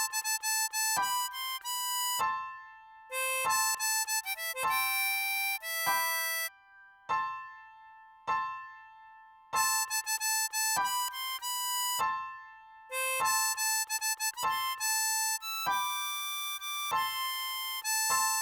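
A 10-hole diatonic harmonica playing a melody in single notes, in short phrases with pauses between them, the longest about three seconds.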